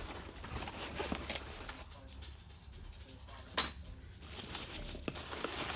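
Hands rummaging through a parcel: scattered light clicks and knocks of hard items being handled and set down, with one sharper knock about three and a half seconds in.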